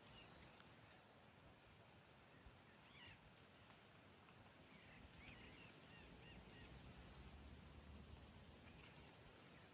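Quiet countryside ambience: a faint steady insect trill with a few faint bird chirps.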